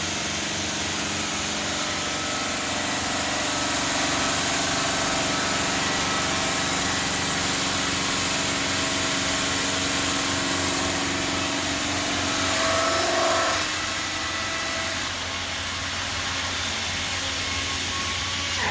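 Denver five-axis CNC bridge saw cutting black granite: a steady hiss and whine over a low hum, shifting briefly about thirteen seconds in.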